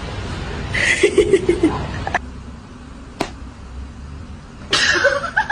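Short bursts of a voice, with a single sharp click a little after three seconds in.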